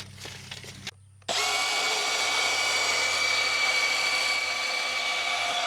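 A power tool starts up about a second in and runs with a steady high-pitched whine, cutting off the top of a galvanized steel fence-brace pipe. A few light knocks come just before it starts.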